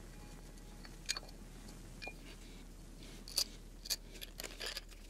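Light clicks and taps of a small carburetor and its metal parts being handled on the bench: single ticks about a second and two seconds in, then a closer cluster of clicks in the second half.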